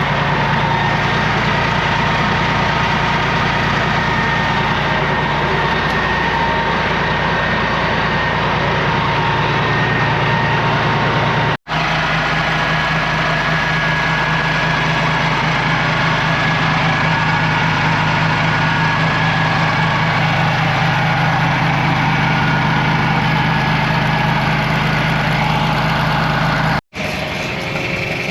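John Deere 4000 tractor engine running steadily, a loud low drone with faint steady whines above it; the sound drops out for an instant twice, about a third of the way in and near the end.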